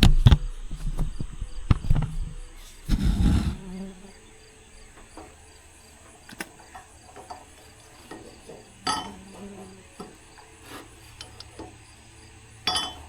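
Metal clanks and knocks of hand work on a haybine's bearing, locking collar and flange parts: a cluster in the first few seconds, then a few scattered clinks. Insects chirr steadily in the background.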